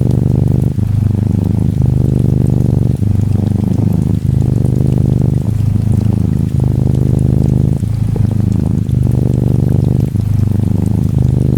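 Close-up purring of an orange tabby Norwegian Forest Cat kitten: a steady low rumble with short breaks about once every second or so, where the purr turns over with each breath. Gentle rain patters faintly behind it.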